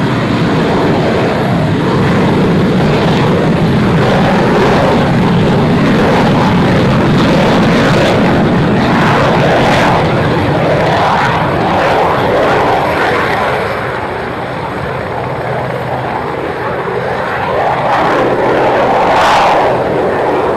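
Aircraft engine running at takeoff power as an airplane departs, a steady loud rush that eases slightly about two thirds of the way through and swells again near the end.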